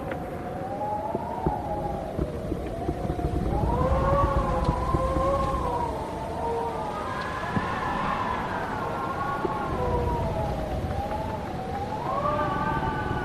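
Wind howling, with several pitches rising and falling slowly together over a low, gusty rumble.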